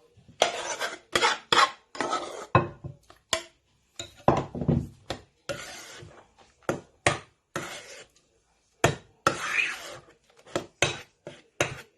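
A spoon scraping and knocking around a mixing bowl while folding a whipped mixture into custard, in irregular strokes with a few sharp knocks.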